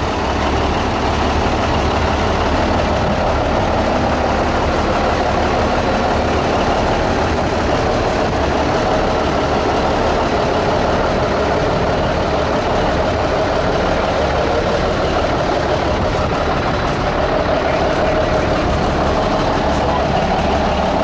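Cummins 370 inline-six diesel engine of a 1972 Hayes heavy-duty truck running steadily at idle.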